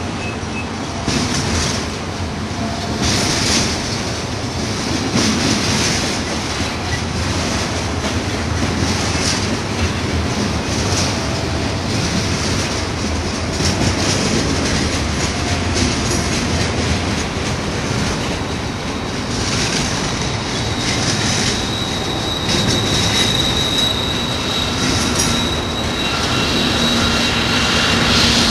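Container train's freight cars rolling past on a downgrade, steel wheels rumbling and clattering on the rails, with thin high-pitched wheel squeal on and off; a steady high squeal sets in about two-thirds of the way through.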